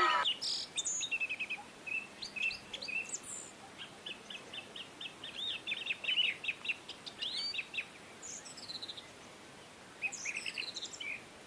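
Small birds chirping and trilling in quick runs of short notes, with a lull about two-thirds of the way through before a few more chirps near the end.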